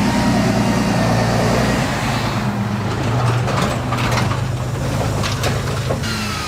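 Heavy truck engine running steadily, with several sharp knocks and clatters partway through and a falling whine near the end.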